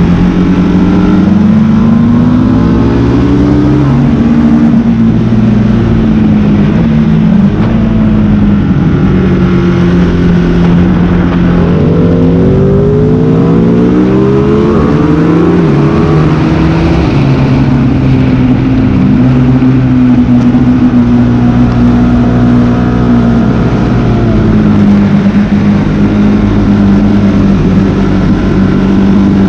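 Sport motorcycle engine at track speed, revving up through the gears and dropping back under braking several times over.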